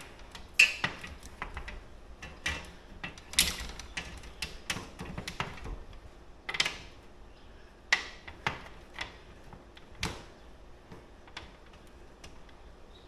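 Irregular metallic clicks and clinks of small hardware and tools being worked against the awning arm, as an E-clip is fitted onto the arm's joint pin. The clicks come thick in the first half and thin out after about ten seconds.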